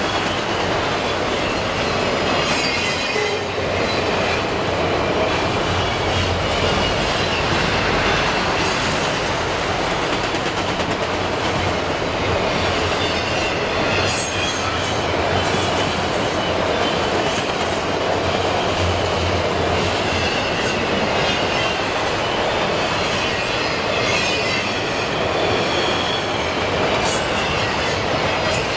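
A long CSX freight train of empty auto-rack cars rolling steadily past close by: continuous rumble and clatter of steel wheels on the rails, with faint wavering high squeals from the wheels.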